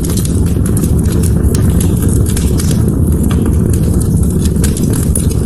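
Wood fire burning in a fireplace: frequent sharp, irregular crackles and pops over a steady low rumble of the flames.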